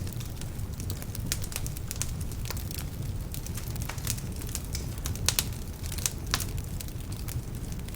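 Wood fire burning in a fireplace: irregular sharp crackles and pops over a steady low rumble of flame, with the loudest pops about five and six seconds in. Some of the logs are damp, which feeds the crackling.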